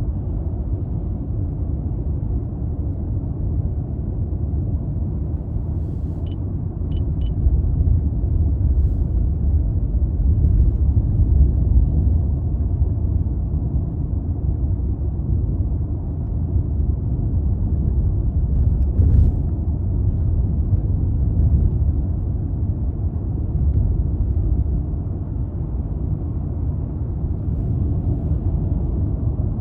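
Toyota Crown Athlete (200 series, 2.5 L V6) driving at a steady pace, a continuous low rumble of engine and road noise that swells a little about ten seconds in. Three short high beeps come about six seconds in, and a single click about two-thirds of the way through.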